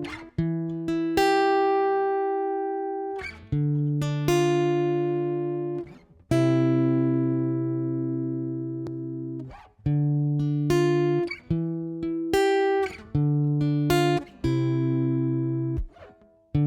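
Guitar playing an instrumental intro of chords, each struck and left to ring out, changing every one to three seconds.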